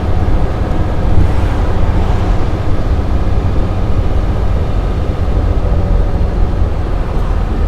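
1955 Mercedes-Benz 300 SL Roadster's 3.0-litre straight-six running steadily while driving, under a heavy low rumble of wind and road noise.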